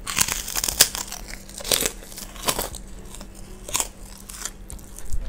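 Close-up crunching of a kerupuk (Indonesian cracker) being bitten and chewed: a dense crackle of crunches in the first second, then several separate loud crunches as the chewing goes on, thinning out near the end.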